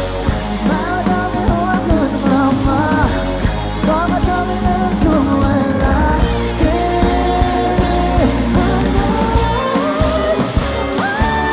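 Live rock band playing the song, with drums and bass under a lead melody that bends up and down in pitch. Near the end the melody settles on a long held note.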